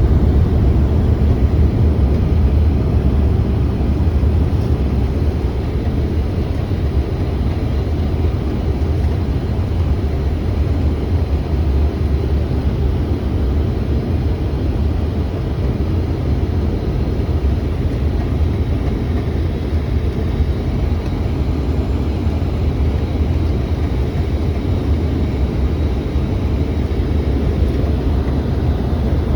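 Steady cabin noise of a CRJ-900 regional jet climbing after takeoff, heard from a front-row seat: a deep rumble of airflow and the rear-mounted turbofan engines, easing slightly over the first few seconds.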